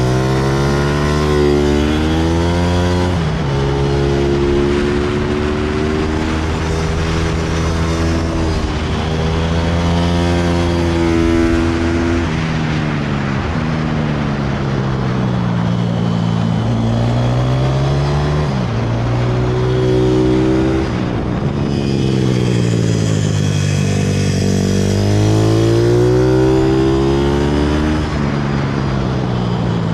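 160cc single-cylinder pit bike engine being ridden hard, its pitch climbing under throttle, holding at high revs, then dropping off, several times over. There are longer falls about halfway through and again just after two-thirds of the way in.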